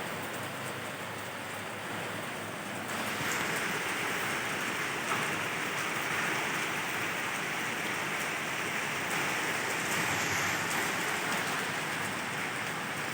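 Steady rain falling, an even hiss that grows louder about three seconds in.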